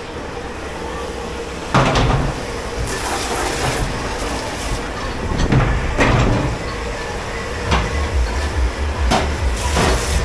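Dishwashing clatter in a commercial dish pit: several sharp knocks of dishes, racks or metal against each other over a steady machine noise. A low throbbing hum comes in about eight seconds in.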